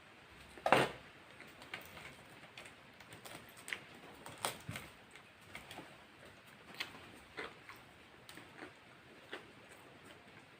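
Close-up eating sounds: soft chewing and mouth clicks with scattered small taps, about one every half second to a second, the loudest a sharp click just under a second in.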